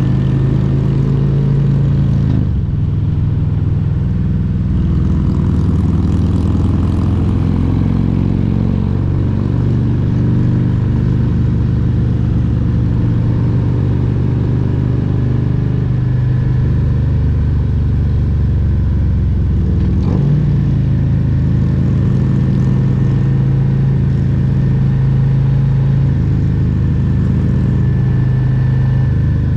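Harley-Davidson Milwaukee-Eight 114 V-twin running on the road under way. Its pitch rises and falls with throttle changes, with a dip about two seconds in and a falling pitch around eight to ten seconds in.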